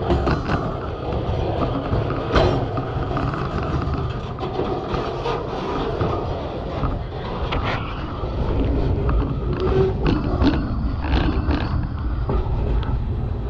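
Freight train cars rolling slowly past, with a steady low rumble and scattered knocks and clicks from the wheels and couplers.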